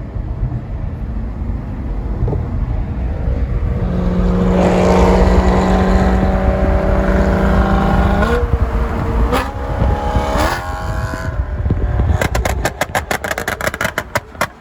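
Car engine revved hard and held at high revs for about four seconds, then dropping back. Near the end, a rapid string of sharp exhaust pops and crackles as the exhaust backfires.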